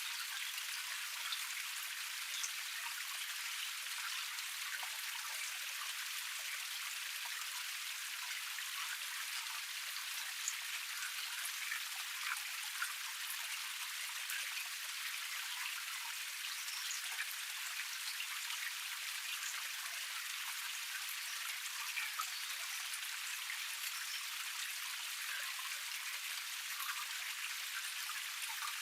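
Water from a small cascade splashing and trickling over rocks. It is a steady, thin, hissy rush with scattered little drips and splashes and no low rumble.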